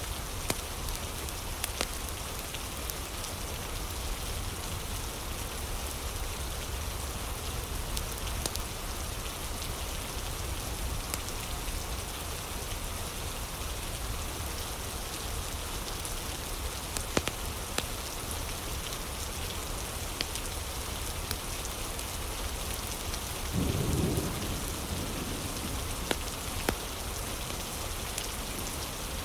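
Steady rain, with scattered sharp pops and crackles of a wood fire, and a short low rumble of thunder near the end.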